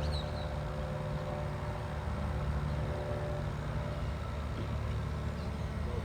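Steady motor hum with a higher whine over it; the whine fades out about halfway through while the low hum carries on.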